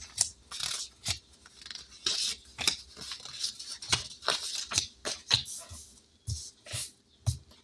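Paper envelopes and bills being handled: short spurts of rustling and crinkling with scattered light taps and clicks.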